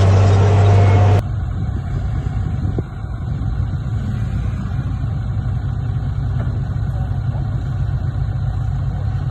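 Heavy construction machine's diesel engine running with a strong steady low hum. About a second in, the sound switches abruptly to a quieter, rougher low engine rumble that holds steady.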